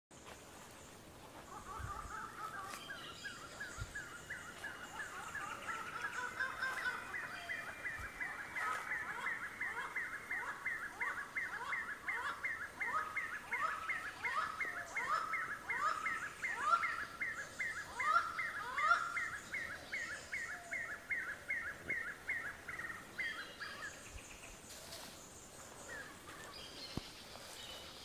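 A forest bird singing a long series of short repeated notes, about three a second, that builds over the first couple of seconds and stops a few seconds before the end. Through the middle, lower downward-sliding notes run alongside, about one a second.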